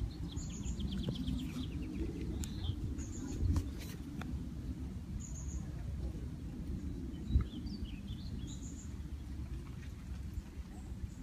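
Wild birds chirping and calling outdoors: a short, very high call repeats every two or three seconds, with a few quick chirpy trills among it, over a steady low rumble. A soft thump comes about a third of the way in and a sharper one a little past the middle.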